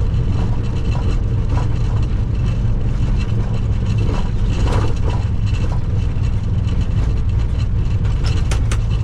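Steady low rumble inside a Boeing 737 cockpit during the landing roll after touchdown: engine and runway noise, with a couple of faint clicks near the end.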